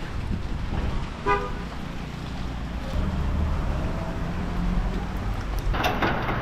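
Low road-traffic rumble with a short vehicle horn toot about a second in, and a louder burst of noise near the end.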